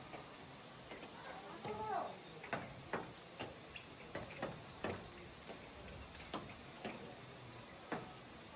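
A series of light, sharp knocks or taps, irregularly spaced at roughly two a second, with a brief pitched sound about two seconds in.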